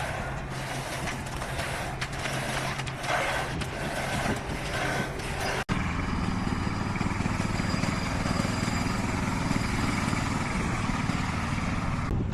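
Diesel engines of heavy road-construction machinery running steadily. The sound cuts out for an instant a little under halfway through, then a steadier, deeper engine hum takes over.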